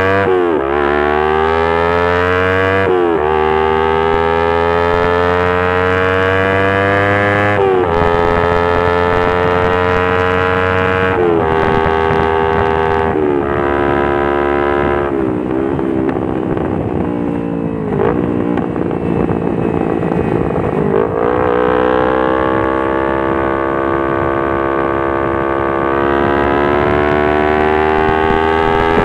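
Kawasaki Ninja 250 FI parallel-twin engine through a Pure Sound R9 H2 titanium exhaust with Prospeed header, ridden under acceleration: the exhaust note climbs in pitch and drops sharply at each of several upshifts. A rougher, uneven stretch follows, then a long, slowly rising pull.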